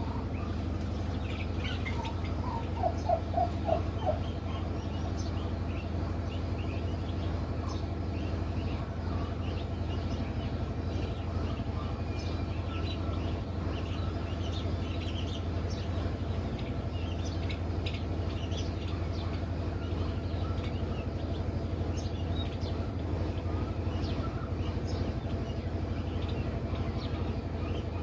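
Turkey poults peeping in short, high chirps throughout, over a steady low hum. About three seconds in comes the loudest sound: a quick run of rapid pulsed calls, a turkey gobbling.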